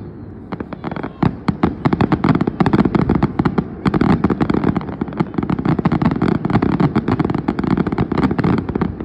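Fireworks going off in a rapid, dense barrage of bangs and crackles, starting about half a second in and running almost without pause.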